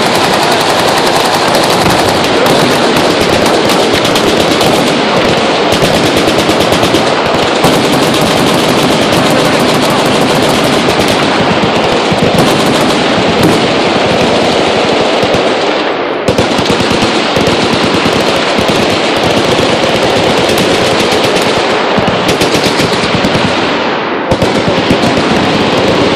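Sustained automatic fire from several machine guns shooting at once, a dense continuous barrage of rapid shots. The barrage thins briefly twice, about two-thirds and nine-tenths of the way through.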